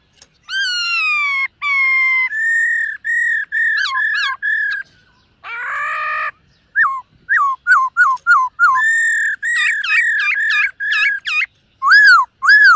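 Black-throated laughingthrush singing a loud run of clear whistled phrases. The phrases open with long downslurred whistles, move into strings of repeated arched notes and quick downslurred notes, and end on loud rising-and-falling whistles. About six seconds in comes one harsh, buzzy note.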